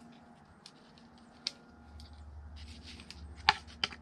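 Small clicks and taps of an aluminum blend door and its arm being handled and fitted into a plastic HVAC heater box. Near the end come two sharp clicks, the first the loudest.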